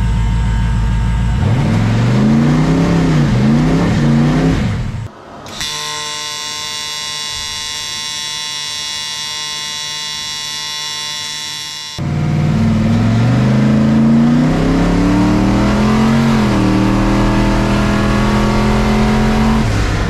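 A car engine heard from inside the cabin, revving up through the gears, its pitch climbing and dropping several times. About five seconds in it gives way to a steady electric welding buzz that holds for several seconds, then the engine returns, climbing through the gears again and settling into a steady cruise.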